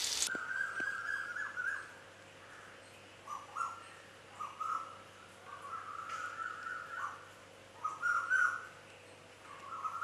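Butter sizzling in a pan cuts off abruptly just after the start. After that come faint bird calls: short, steady-pitched notes in irregular runs, over a low steady hum.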